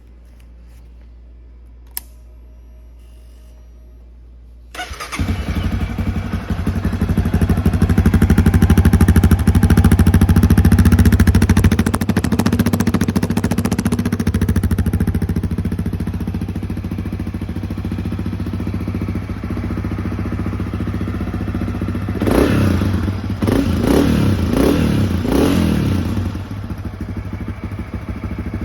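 2021 Honda CRF250F's air-cooled single-cylinder four-stroke engine catching on a cold start about five seconds in, after a sharp click, then running at a high fast idle that gradually settles lower. Near the end the throttle is blipped in a few quick revs before it drops back to idle.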